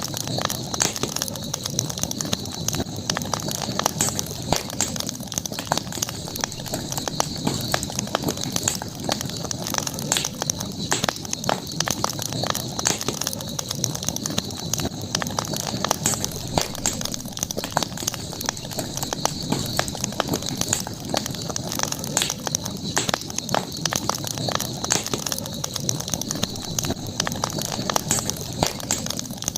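Campfire burning, the wood crackling and popping in frequent irregular snaps, over a steady high-pitched background drone.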